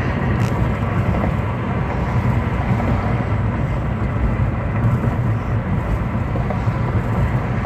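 Steady road and engine noise inside a moving car, mostly a low rumble with an even hiss above it.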